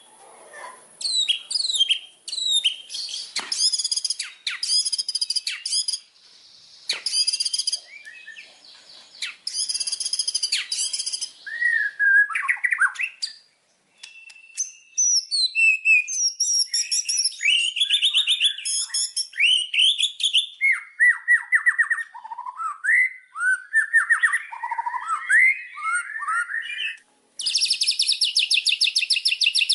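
White-rumped shama (murai batu) song: a long run of varied whistled phrases and rapid chattering notes, broken by a short pause about halfway through. Near the end it turns into a dense, very fast repeated trill. It is played as a lure track to set caged shamas singing.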